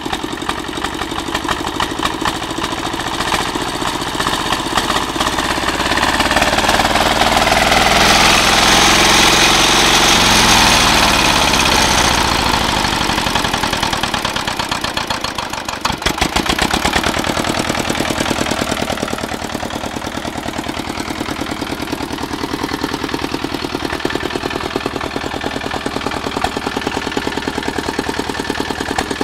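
Walk-behind tractor engine running away: its revs climb on their own over several seconds to a loud, high-revving peak, then drop back to a steady, even running beat. The surge is the engine overspeeding out of control.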